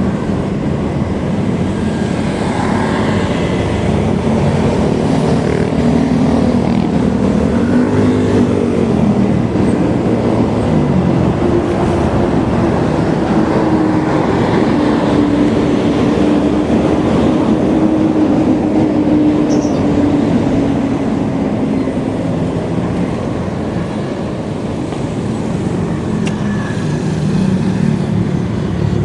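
Steady rushing wind and road noise of a bike ride in motion, with a motor's hum slowly rising and falling in pitch through the middle.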